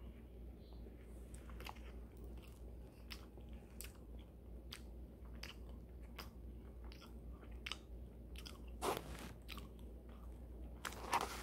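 A person chewing an Oreo cupcake close to the microphone: soft, wet mouth clicks and smacks at irregular intervals, with two louder short puffs of noise toward the end.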